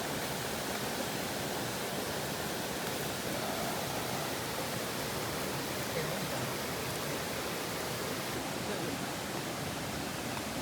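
Steady, even rush of flowing water from a stream.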